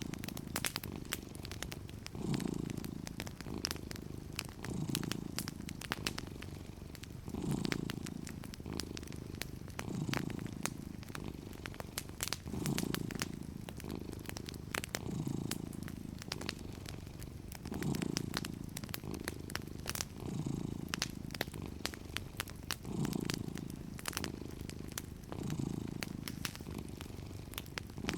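Domestic cat purring steadily, the purr swelling and easing with each breath about every two and a half seconds, with the scattered pops and crackles of a wood fire over it.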